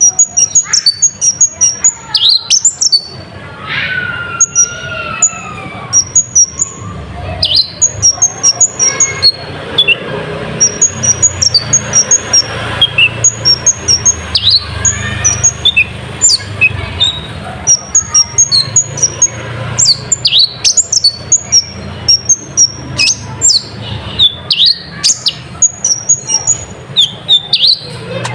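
Olive-backed sunbird (kolibri ninja) song worked with mimicked nightjar-like calls: rapid strings of short, high chirps broken by sharp falling notes, with a lower gliding call about four seconds in.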